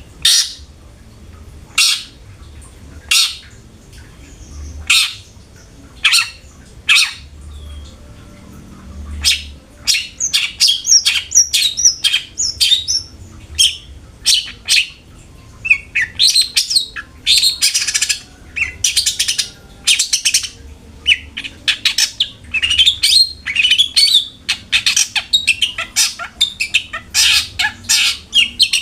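Long-tailed shrike (cendet) calling: first a string of single sharp calls about one every second or so, then from about ten seconds in a fast, dense chatter of short high notes broken by harsh, rasping stretches.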